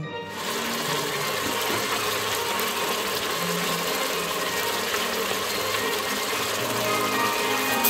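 Steady sizzling of onions, tomatoes and chillies frying in a cooking pot, with soft background music underneath.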